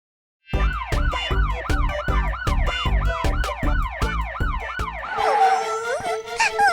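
Cartoon police siren sound effect: a fast up-and-down wail repeating about two and a half times a second, with a low pulse under each cycle, starting about half a second in. Near the end it gives way to music with a steady held note and gliding notes.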